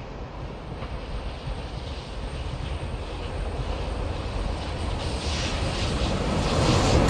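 An approaching train, its rumble growing steadily louder as it nears, with a faint high steady whine above it.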